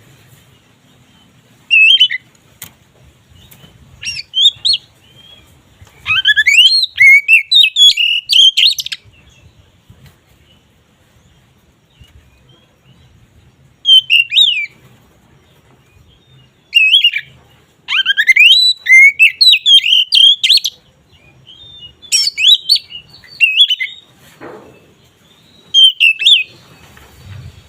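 Oriental magpie-robin (kacer) in full, open song: bursts of varied clear whistles and fast jumbled phrases, some under a second and some about three seconds long, with short pauses between them.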